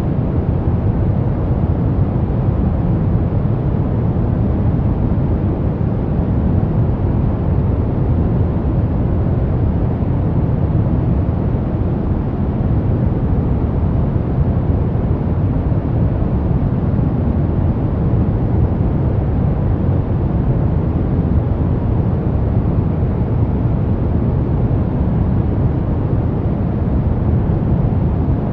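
Steady pink noise: an even, unbroken hiss with most of its weight in the low end.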